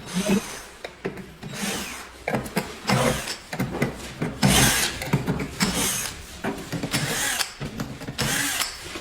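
Screwdriver backing screws out of a plastic inkjet printer casing, in about seven short rasping bursts roughly a second apart.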